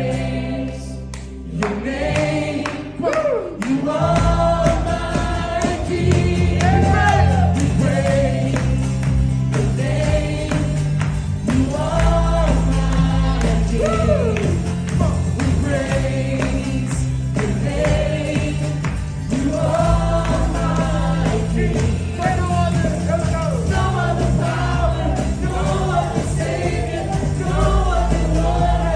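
Gospel praise music: several voices singing over a band, with a heavy bass coming in about four seconds in.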